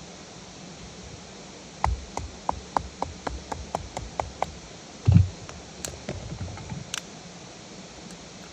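Steady rain hiss, broken about two seconds in by a quick run of about a dozen light taps, roughly four a second, then a dull thump and a few scattered sharper clicks.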